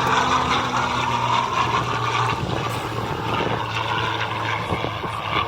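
Piston-engined propeller fighter aircraft flying by, a steady engine drone whose pitch drops slightly about two seconds in.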